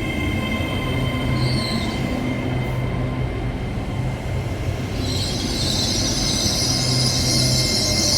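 Class 66 diesel freight locomotive and its wagons moving slowly over pointwork. The low rumble of its two-stroke V12 engine runs steadily, and a high wheel squeal sets in about five seconds in as the wheels grind through the crossover.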